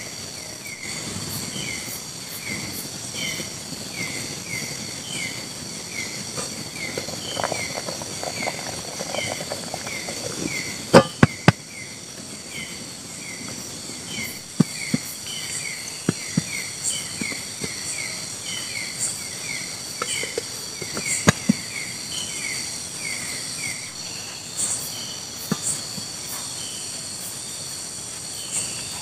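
Tropical forest insect chorus, a steady high-pitched buzz in several tones, with a short falling chirp repeating about twice a second until near the end. A few sharp knocks cut through, three close together about eleven seconds in and single ones later.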